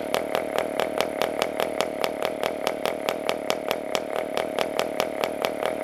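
PAW 40 TBR model diesel engine, a compression-ignition glow-free two-stroke, running steadily on its propeller, most likely at idle. Its note pulses evenly about five times a second.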